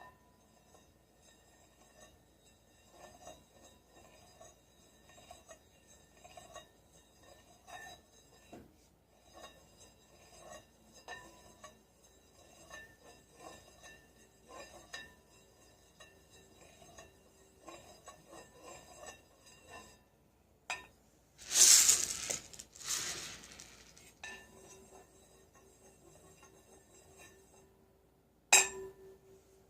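Soft, repeated strikes on glassy, chiming instruments, their high tones ringing on, with a steady lower tone sounding in the second half. About three-quarters of the way through there is a loud shaken rattle lasting a couple of seconds, and near the end a single sharp strike rings out.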